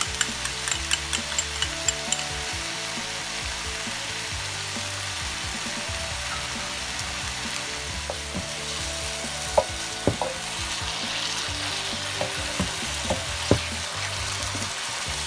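Eggs and a ground spice paste with soy sauce sizzling in a non-stick electric skillet, a steady hiss throughout. A quick run of light clicks comes in the first two seconds, and a wooden spoon knocks and scrapes against the pan now and then in the second half as the eggs are stirred.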